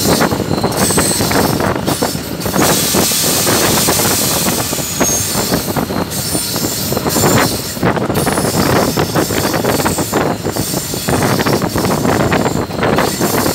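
Old GE diesel locomotive running along curving mountain track, heard from its front platform: a loud, steady rattle and clatter of wheels on rail, with a brief high squeal about five seconds in.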